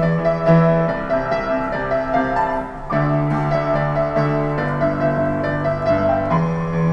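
Street piano played solo: a pop melody over sustained left-hand chords and bass notes, with a fresh chord struck about three seconds in.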